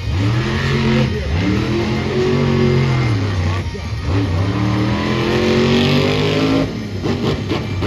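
Monster truck engine revving hard in three long swells, the pitch climbing and falling with each, as the throttle is worked during a freestyle run.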